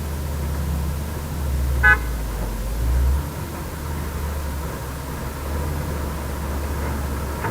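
Heavy diesel engine of construction machinery running with a deep steady rumble, rising twice under load between about one and a half and three seconds in. A short, high-pitched toot cuts through about two seconds in.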